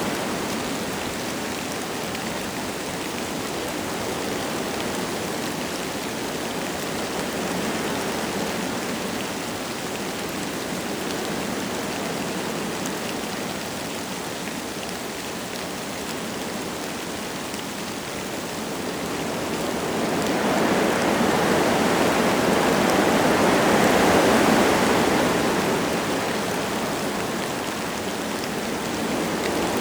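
Wind blowing through forest trees with light rain falling, a steady rushing hiss. About two-thirds of the way through a stronger gust swells up and then dies away.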